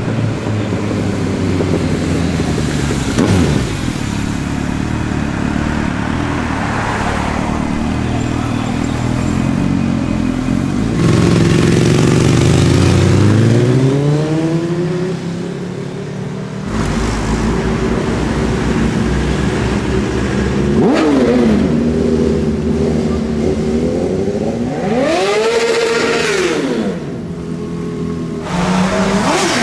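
Sport motorcycle engines revving and accelerating hard over a series of short clips, the pitch sweeping up and down with each throttle blip and gear change, and the sound changing abruptly at several cuts.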